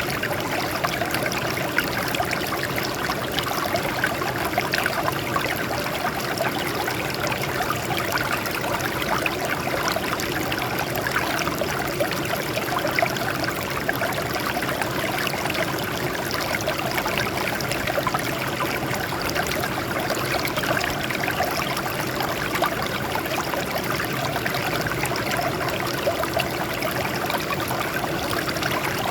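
Water flowing over rocks, a steady babbling and trickling with many small splashes.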